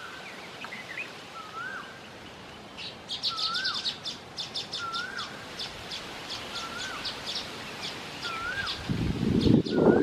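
Birds calling: a short whistled note that rises then dips, repeated about once a second. About three seconds in, a fast, high chattering starts, the chattering song of a baya weaver. Near the end comes a loud low rustle.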